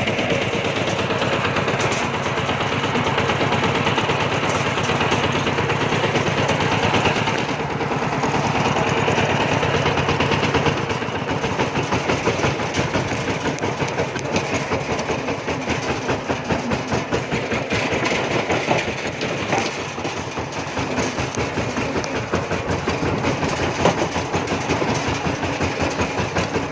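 Kubota RT140 single-cylinder diesel engine of a two-wheel power tiller running steadily with a fast, even firing beat. The beat becomes more distinct and a little quieter about eleven seconds in.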